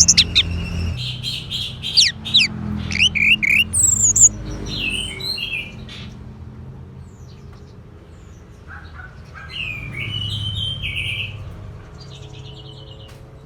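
Orange-headed thrush singing: a rapid run of sharp, varied whistled notes in the first few seconds, then a lull, then another warbled phrase about nine seconds in, with faint notes near the end.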